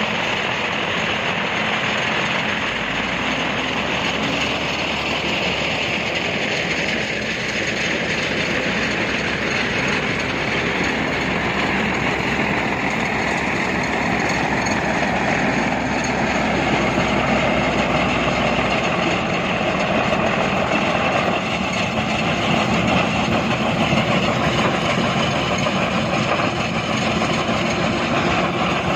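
Heavy construction machinery running steadily: a dense, continuous mechanical noise with no pauses, a little louder in the second half.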